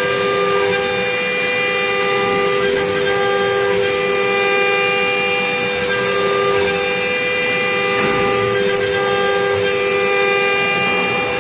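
Woodworking CNC router running with a steady, loud whine made of two close tones, the higher overtones shifting slightly every few seconds.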